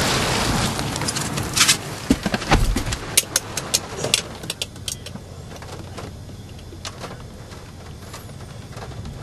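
Rushing wind or road noise inside a vehicle that dies down about a second in, followed by a quick series of sharp clicks and knocks, then a quieter steady rumble.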